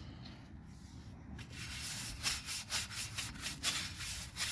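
Stiff brush scrubbing a car wheel wet with wheel cleaner, in quick back-and-forth rasping strokes, about four a second, that start about one and a half seconds in.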